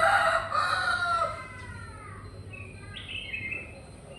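A rooster crowing, its long call already under way, tailing off in a falling glide about a second and a half in. Then a few short, high songbird chirps.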